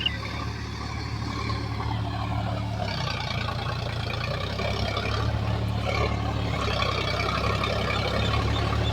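Heavy diesel engine running steadily under work, growing louder with a rougher, busier sound about three seconds in and again near the end.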